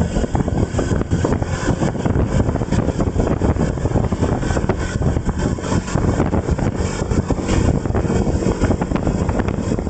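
Wind buffeting the microphone on a moving vehicle, a rough, fluttering rush, with steady running noise underneath.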